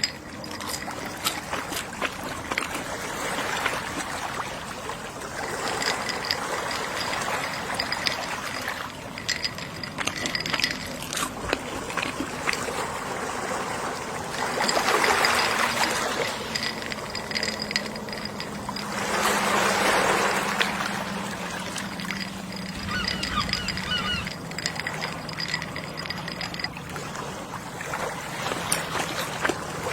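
Gentle sea waves washing onto the shore, swelling twice near the middle, with seagull calls over them.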